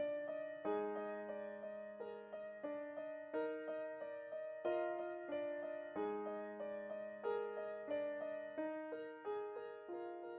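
Gentle solo piano music: a slow, steady melody of struck notes, each note fading before the next.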